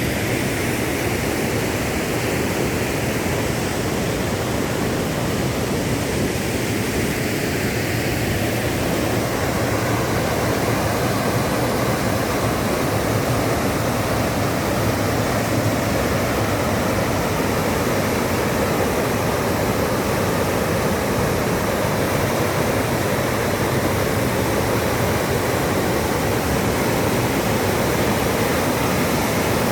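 Waterfall on a river: a steady, loud rush of falling water, a little fuller about a third of the way in.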